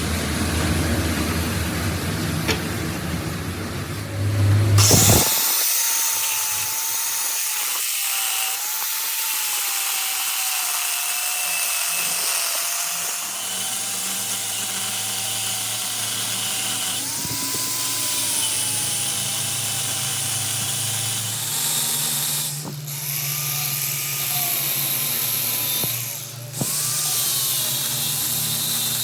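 A power tool running steadily in a metal workshop: a thin whine that slowly drifts up and down in pitch over a hiss. It starts sharply about five seconds in, after a lower hum, and falters briefly twice near the end.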